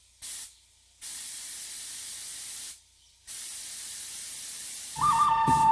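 Three bursts of spray-like hiss, a short one and then two long ones, each stopping abruptly. Music starts near the end.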